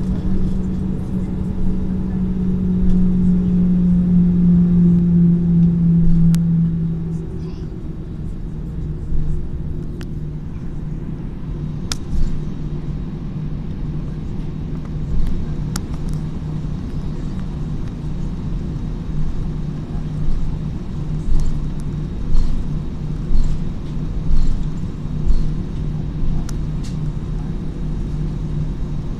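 Jet airliner cabin rumble on the ground before takeoff, with a steady droning tone that drops a little in pitch about six seconds in and then holds. Scattered clicks and a run of short knocks are heard in the second half.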